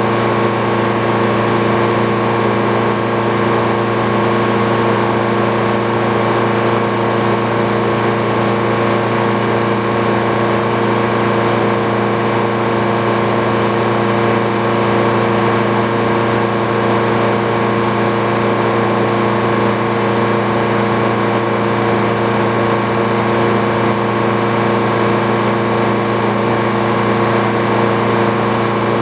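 Engine driving an old Frick sawmill, running at a steady speed with an unchanging hum.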